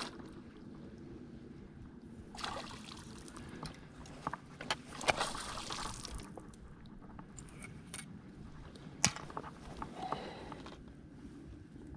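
Water splashing and sloshing in two short bursts, with a few sharp clicks and knocks over a low steady rumble.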